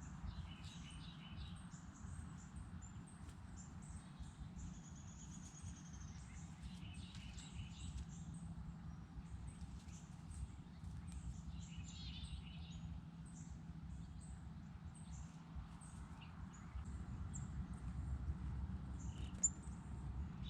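Small songbirds chirping in short scattered bursts, with one rapid high trill a few seconds in, over a steady low outdoor rumble.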